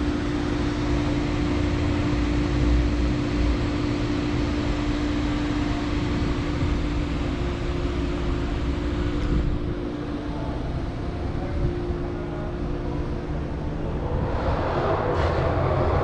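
A vehicle engine running, with a steady low rumble and hum; the hum stops about ten seconds in and a louder rush rises near the end.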